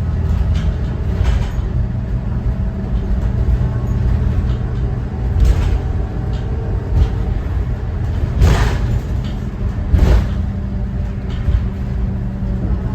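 School bus underway, heard from on board: the Thomas Saf-T-Liner C2's Cummins ISB 6.7 inline-six turbodiesel runs with a steady low rumble. Several sharp rattling knocks come through the body, the two loudest in the second half.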